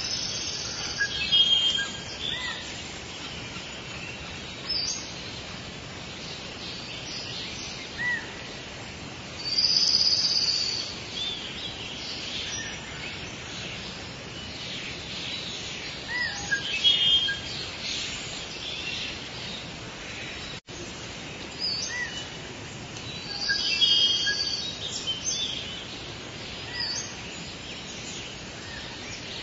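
Outdoor ambience of songbirds singing: short high chirping phrases that recur every several seconds over a steady background hiss, with a brief dropout a little past two-thirds of the way through.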